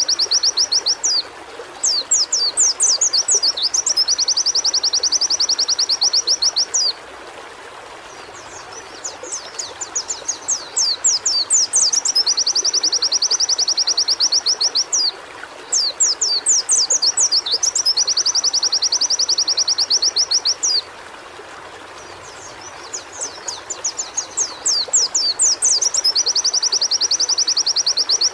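White-eye (pleci) song: repeated high phrases of rapid down-slurred notes running into a fast, even trill, each phrase lasting several seconds and recurring every six or seven seconds, over a steady background hiss.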